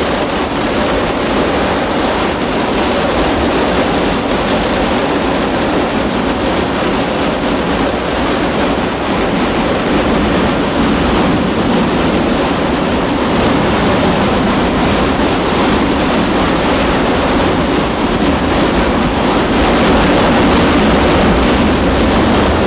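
Daylight fireworks barrage: firecrackers going off so fast that they merge into one steady, loud crackling din, which stops abruptly at the very end.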